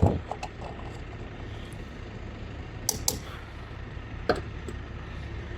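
A dull thump at the start, then a few sharp clicks and knocks, about three and four seconds in, over a steady low hum.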